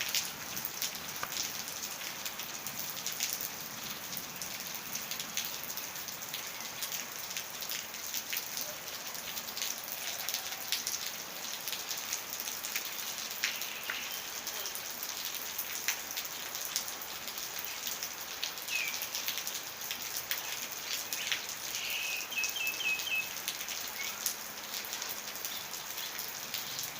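Light rain falling steadily, with many separate drops ticking on surfaces; the rain is easing off but has not stopped. Near the end a bird gives a short run of quick chirps.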